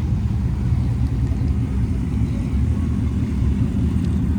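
Car engines rumbling steadily at idle, with no revving.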